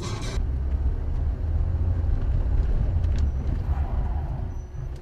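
Steady low rumble of a car driving along, engine and road noise.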